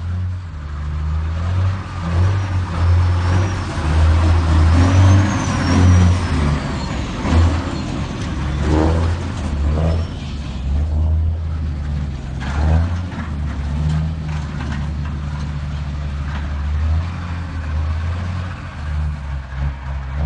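A heavy vehicle's engine running with a steady low drone and road or machine noise over it. A faint high whine glides up and down a couple of seconds in.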